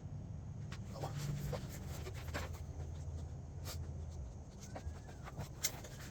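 Light clicks and taps of metal sockets and a ratchet being handled while the right size socket is sought, scattered over a low steady rumble.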